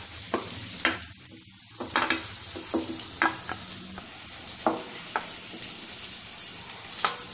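Colocasia-leaf rolls sizzling in hot oil in a wok, a steady frying hiss, while a wooden spatula knocks and scrapes irregularly as the lightly fried rolls are lifted out of the oil.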